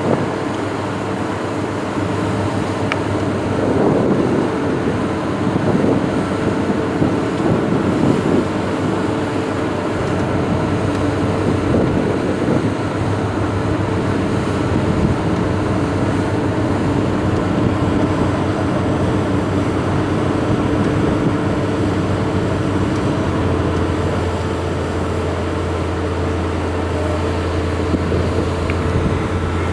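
A boat's engine running steadily, its low hum growing stronger about two-thirds of the way through.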